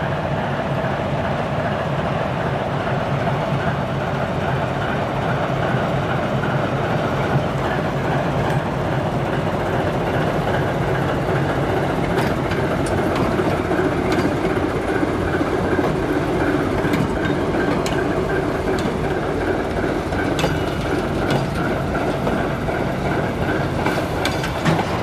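Freight train hauled by the TEM17 shunting diesel locomotive rolling past, a steady rumble with sharp clicks of wheels over rail joints from about halfway on.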